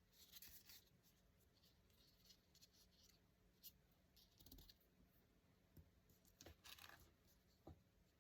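Faint paper handling during journal crafting: short bursts of rustling and scraping, with a few small clicks or taps in between.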